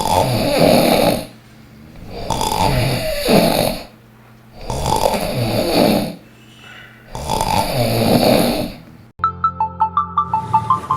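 A person snoring loudly, four long snores about two and a half seconds apart. About nine seconds in the snoring stops and bright, bouncy music with a steady beat starts.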